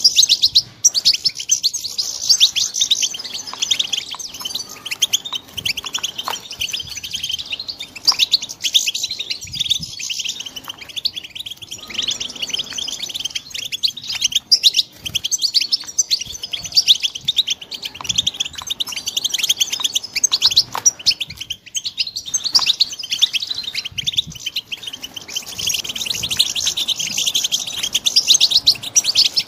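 Young European goldfinches twittering and singing in a fast, continuous high-pitched chatter that thins out briefly a couple of times and grows fuller near the end.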